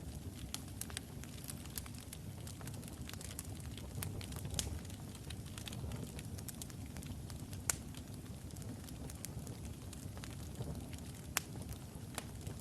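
Logs burning in a fireplace: a steady low rumble of the flames with frequent sharp crackles and pops, two of them louder, one just before the middle and one near the end.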